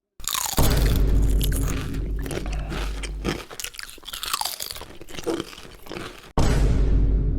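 Loud, boomy crunching and chewing of chips, heavy in the low end. It breaks off for an instant about six seconds in and starts again at once.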